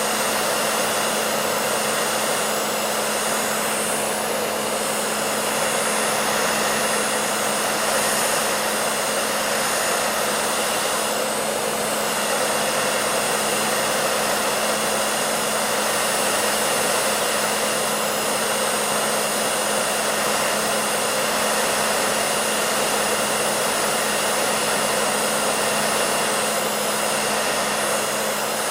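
Hair dryer running steadily: a constant rush of air over a low motor hum, with no change in speed.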